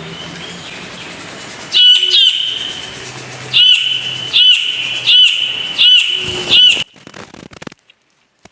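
A bird calling repeatedly: about seven loud, short arched calls in quick succession, which stop shortly before the end.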